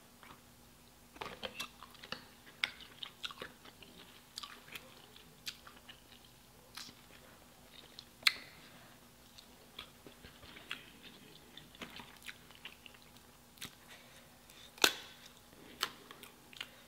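Chewing and wet mouth sounds of a person eating seafood boil (shrimp and crab meat), with many small scattered clicks. Two louder sharp snaps come about eight and fifteen seconds in.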